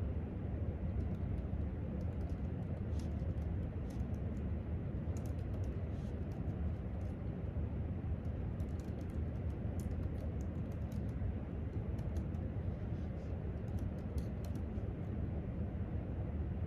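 Typing on a laptop keyboard: irregular runs of light key clicks over a steady low rumble of room noise.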